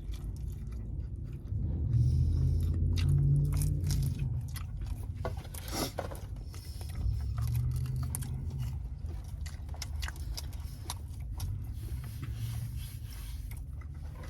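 Close-up chewing and biting of a chicken shawarma wrap with fries, with irregular short crunches and wet clicks of the mouth over a steady low rumble.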